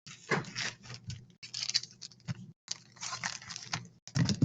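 Rustling, crinkling and tapping of trading-card packaging (cardboard boxes and foil packs) being handled, in quick irregular clicks and crackles.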